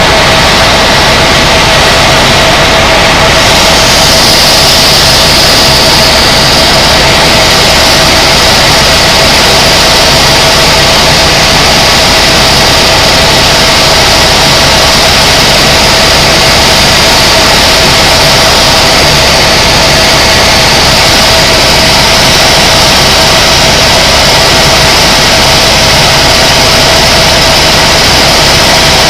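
Tour helicopter in steady flight, heard from inside the cabin: loud, unbroken turbine and rotor noise with a steady whine.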